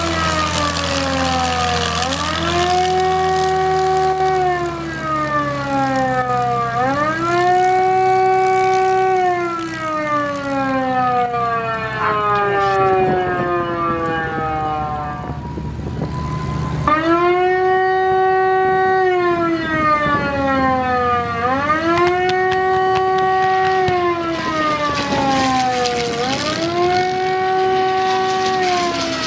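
Air raid siren wailing: its pitch rises, holds, then falls, over and over about every four to five seconds.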